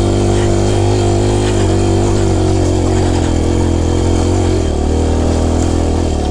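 Four-stroke single-cylinder dirt bike engine running steadily under load, close up, its pitch easing slightly lower near the end.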